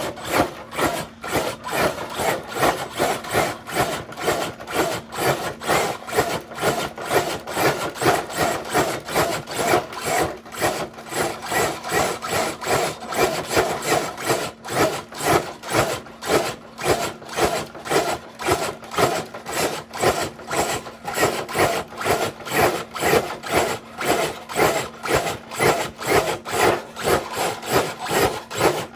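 Radio-controlled scale truck straining to drag a dead-weight sled loaded with eight bricks: a rhythmic grinding, about three or four pulses a second, over a faint steady hum.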